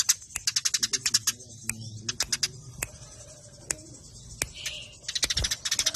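Eurasian tree sparrows (burung gereja) chattering in fast, tightly packed chirps, the fighting chatter. The chirps come in a rapid run at the start, thin out to scattered single chirps in the middle, and pick up into a fast run again near the end.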